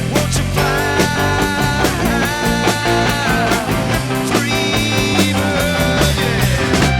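Rock band playing an instrumental passage: a lead electric guitar holds and bends high notes over steady drums, bass and rhythm guitar.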